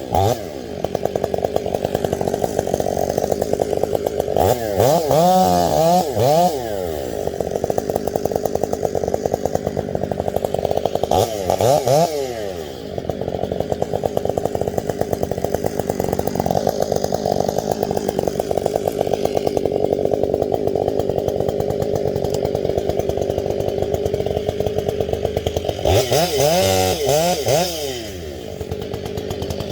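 Two-stroke chainsaw running hard at full throttle in steady cuts. The engine note drops and rises again three times: around five seconds in, around twelve seconds, and near the end.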